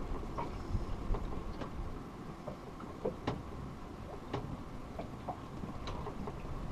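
Low wind rumble with irregular light knocks and ticks, about two a second, some with a short ring.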